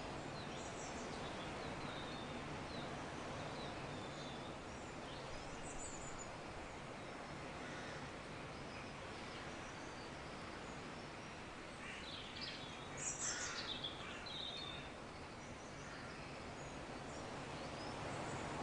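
Faint nature-sounds ambience: a steady soft hiss with scattered high-pitched bird chirps, and a brief flurry of calls about two-thirds of the way through.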